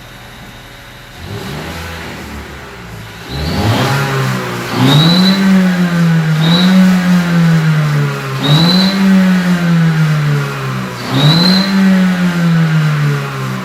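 Hybrid car's engine revved in repeated blips, about five times, with a high whistle sounding briefly on each rev from a turbo whistle fitted inside the exhaust tailpipe.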